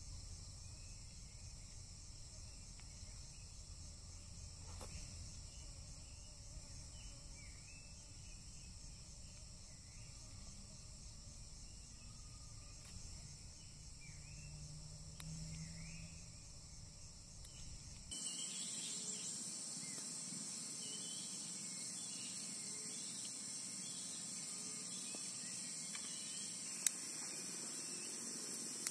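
Steady high-pitched chorus of forest insects such as crickets, with a low rumble underneath. About two-thirds of the way through, the sound changes abruptly: the rumble disappears and the insect chorus becomes louder and closer. A single sharp click comes near the end.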